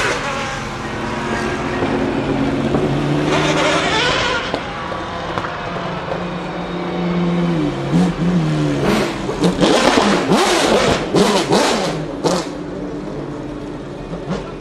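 Ferrari F40 LM's twin-turbo V8 running with a steady engine note and a brief rev about three seconds in. Then comes a rapid string of sharp exhaust crackles and pops for about three seconds near the end.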